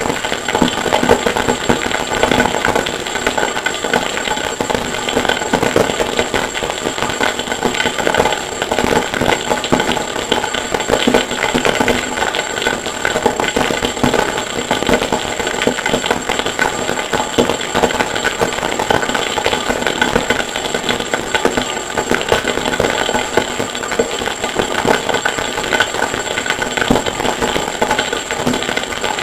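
Harsh noise music made from processed forge-hammering recordings: a dense, unbroken crackle of rapid clatter with a steady high whine over it.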